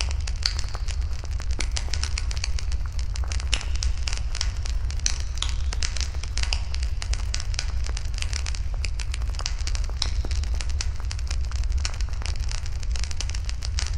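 Wood campfire crackling, with dense, irregular pops and snaps over a steady low rumble.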